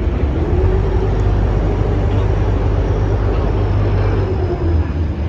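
Ferry boat's engine running with a steady deep drone.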